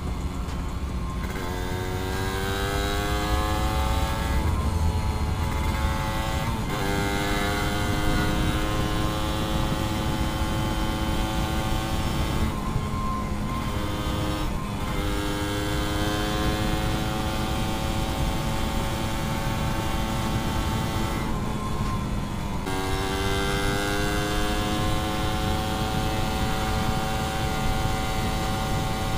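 Suzuki Satria 120 two-stroke single-cylinder motorcycle engine pulling under throttle on the move, its revs climbing slowly in each gear and dropping sharply at each of about four gear changes. Steady wind noise runs underneath.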